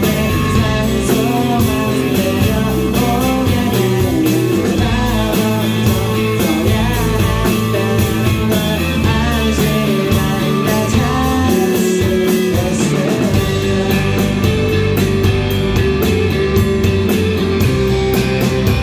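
Indie rock band playing live: electric guitars, bass and drums. About two-thirds of the way through, a steady run of evenly spaced cymbal strokes comes in.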